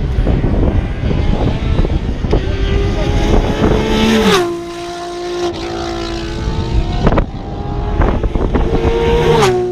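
Race cars passing at speed, their engine notes dropping sharply in pitch as one goes by about four seconds in and another near the end. A low rumble of wind on the microphone comes before the first one.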